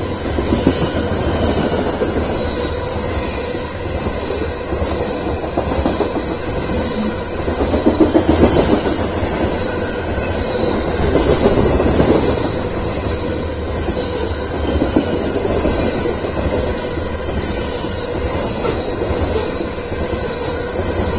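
BNSF freight train's covered hopper cars rolling past at speed: a steady rumble of steel wheels on rail with fast clickety-clack over the joints, swelling louder a few times as cars go by.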